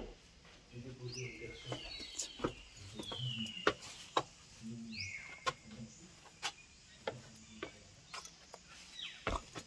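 Birds calling with repeated whistles that slide downward, over scattered clicks and scuffs of footsteps on stone.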